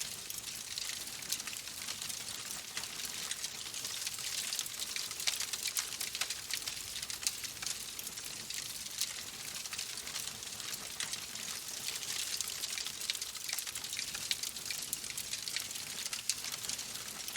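Wood fire crackling in a fireplace: a steady hiss dotted with many quick pops and snaps.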